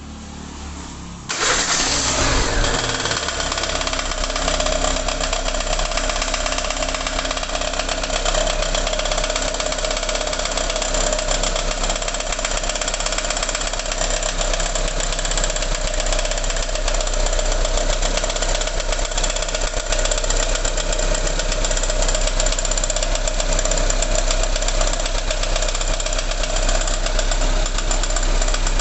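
Renault Kangoo's K4M 1.6 16-valve petrol engine starting on its first start, catching about a second in, then running steadily with a fast clattering noise over the engine sound.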